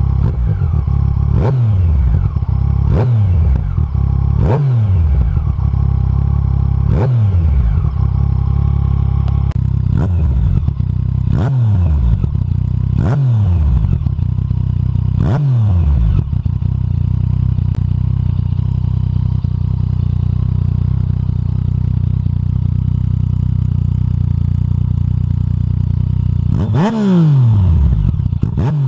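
Yamaha MT-09 SP inline-three engine with an Akrapovic exhaust idling and being blipped: about eight quick revs in the first sixteen seconds, each rising sharply and falling straight back to idle, then a steady idle, then two bigger revs near the end.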